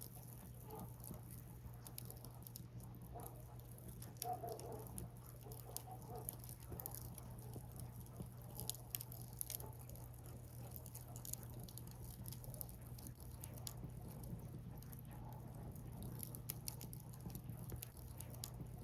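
Wood fire burning, crackling with many small, irregular sharp pops and snaps over a steady low hum.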